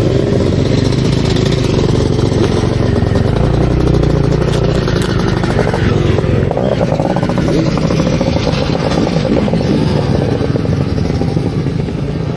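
Dirt bike engine running close by.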